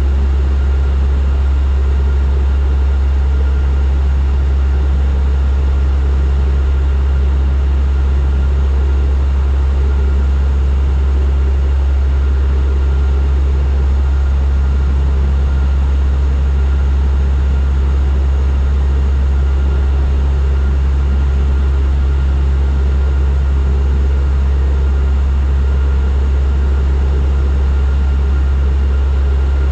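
Turboprop airliner's engines and propellers running steadily in flight: an unchanging drone with a strong low hum.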